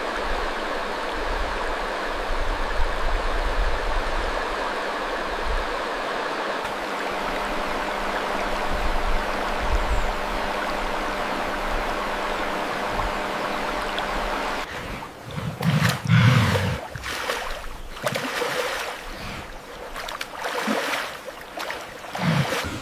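Steady rushing water, then irregular splashing and sloshing from about fifteen seconds in, loudest a second or so later.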